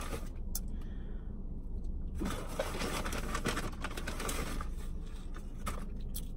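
Close-up chewing and mouth sounds of someone eating fast food, with many small irregular clicks and crackles.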